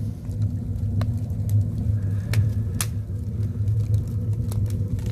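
Wood fire burning in a stone agungi firebox: a steady low rumble with scattered sharp pops and cracks from the burning firewood.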